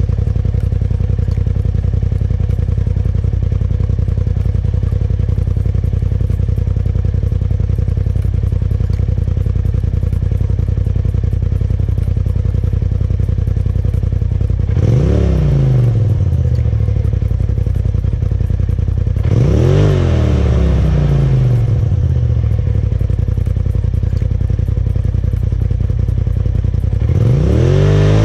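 2018 Polaris RZR Turbo's turbocharged twin-cylinder engine idling through a Trinity Stage 5 full stainless exhaust with dual aluminum mufflers. It is revved in three short throttle blips: about halfway through, again about five seconds later, and near the end. The exhaust note is crisp and clean, not too loud.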